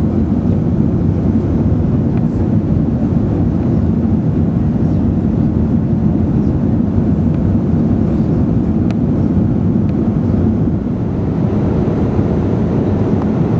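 Airbus A380 passenger cabin in flight: a steady, loud low rumble of engines and rushing air.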